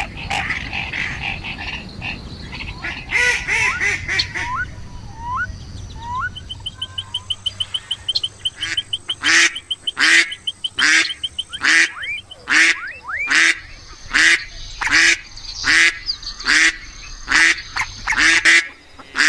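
Ducks quacking. Softer scattered calls and a fast rattling trill come first; from about halfway one duck gives a steady run of about a dozen loud quacks, a little under one a second.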